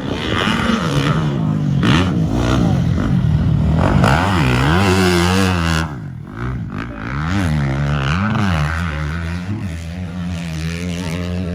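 KTM 250 motocross bike engine ridden hard, its pitch climbing and dropping again and again with throttle and gear changes; the engine note dips briefly about six seconds in.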